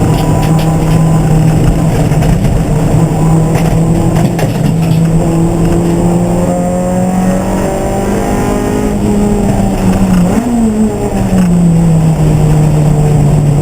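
Race car engine running hard at a steady high pitch. Its note climbs gradually over a few seconds, wobbles briefly about ten seconds in, then drops back down.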